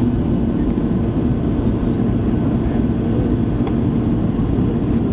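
Steady drone of an airliner's jet engines and rushing air, heard from inside the passenger cabin, with most of the sound low in pitch.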